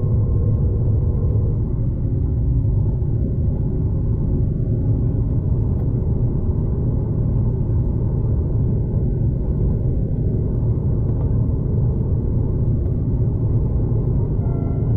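Steady low rumble of a V/Line passenger train heard from inside the carriage while it runs along the line, even throughout with no distinct clicks or knocks.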